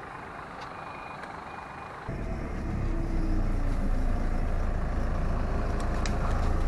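A heavy road vehicle's engine drones close by, coming in loud about two seconds in, its pitch slowly falling. Before it, a few faint short high beeps sound over street noise.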